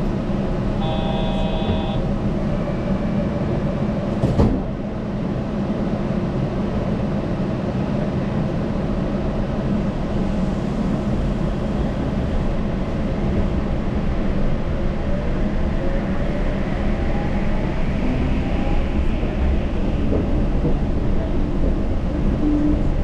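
Yurikamome rubber-tyred automated train in motion, with a steady running rumble from its tyres and drive. About a second in there is a brief tone, and about four and a half seconds in a sharp click. In the second half a faint whine rises in pitch as the train picks up speed.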